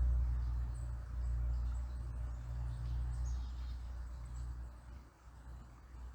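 A low steady rumble that fades away over the last two seconds, with faint high bird chirps above it.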